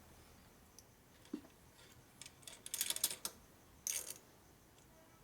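Light metallic clinks and clicks of small steel bolts being handled and tried in an engine cover, in a couple of short clusters about two and a half seconds in and again near four seconds.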